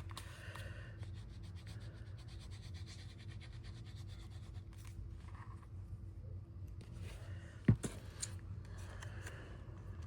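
Soft rubbing and handling of paper and cardstock, with one sharp tap or click a little past the middle, over a steady low hum.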